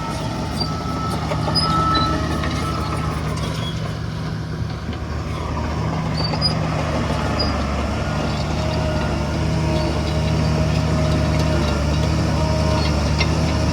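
Heavy diesel engine of earthmoving machinery running steadily, working a little harder about eight seconds in.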